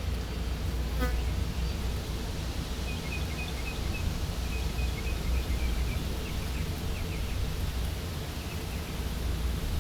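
Outdoor ambience with a steady low rumble. A single click comes about a second in. From about three seconds in to past seven seconds there is a run of short, high, evenly repeated chirps from a small bird or insect.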